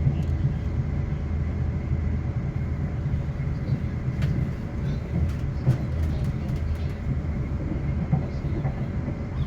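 A Class 450 electric multiple unit running on the line, heard as a steady low rumble with a faint steady high whine and a few light clicks.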